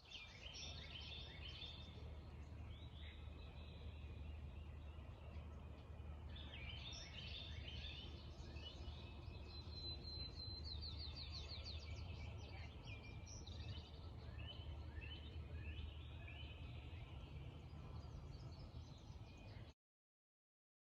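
Several birds singing, with overlapping chirped phrases repeated again and again and a fast, even trill about ten seconds in, over a steady low hum; the sound cuts out abruptly near the end.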